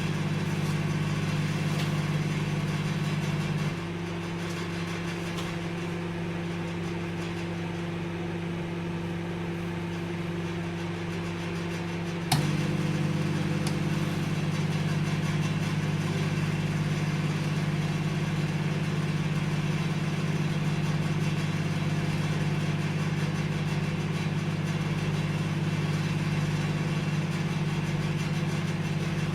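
Microwave oven running with a steady hum. About four seconds in, the hum drops to a quieter, different tone; about twelve seconds in, a sharp click brings the fuller hum back.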